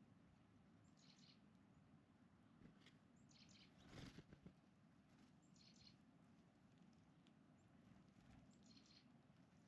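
Faint songbird calls: a short, high chirping phrase repeated four times, about every two seconds. A brief louder rustle comes about four seconds in.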